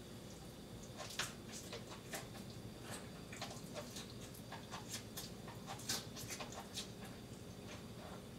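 Faint chewing of crunchy food, a radish coated in melted camembert: irregular crisp crunches, about two or three a second.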